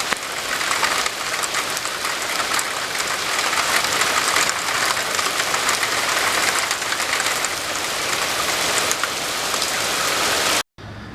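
Heavy rain falling steadily, with many individual drops pattering in a dense hiss; it cuts off suddenly near the end.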